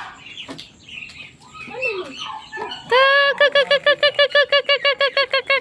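Domestic fowl calling. Faint scattered calls come first. About halfway in, one bird gives a loud held note that breaks into a fast run of short repeated notes, about eight a second.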